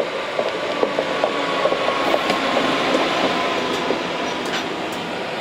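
A train rolling past, its wheels squealing on the rails in thin steady tones, over a rushing noise with many short clicks and ticks.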